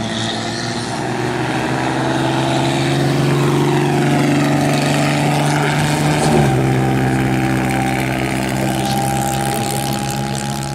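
A classic car's engine running hard along a straight, its pitch climbing slowly as it accelerates. About six seconds in it reaches its loudest and the pitch drops sharply as the car passes by.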